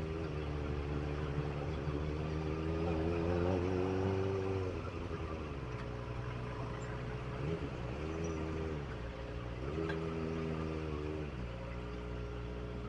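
Kawasaki ZX25R's inline-four engine running at low revs, its pitch climbing and falling several times as the throttle is rolled on and off.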